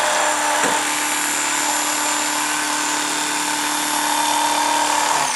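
Small electric power tool running at a steady speed while cutting through seat foam, then winding down near the end.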